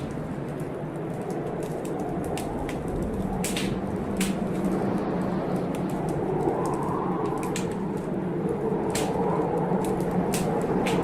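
Heavy blizzard wind blowing steadily, with a wood fire crackling and popping in short sharp snaps at irregular intervals.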